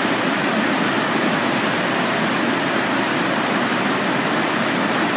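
River water rushing, a steady, loud, even roar.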